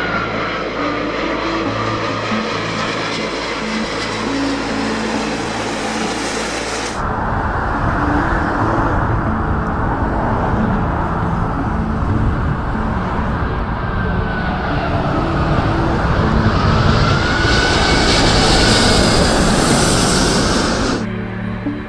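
Airliner engine noise: a loud, steady rush with a faint whine that glides up and down in pitch. The sound changes abruptly about a third of the way in, swells to its loudest near the end, then cuts off.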